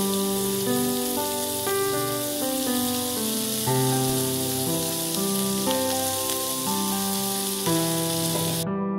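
Sliced onions and green beans sizzling in hot oil in a frying pan, a steady hiss that cuts off suddenly near the end. Slow background piano music plays throughout, with a new note about every second.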